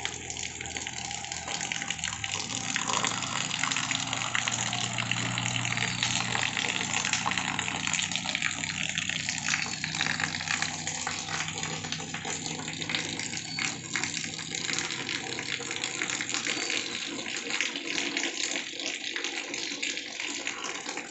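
Steady rain falling on vegetation, with a stream of roof runoff splashing onto a sheet on the ground.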